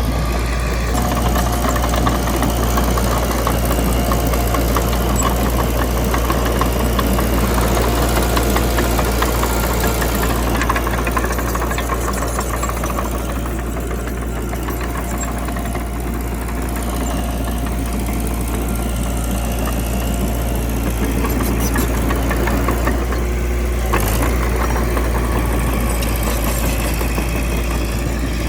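Mitsubishi BD2 bulldozer's diesel engine running steadily with a dense clatter, and one sharp knock about 24 seconds in.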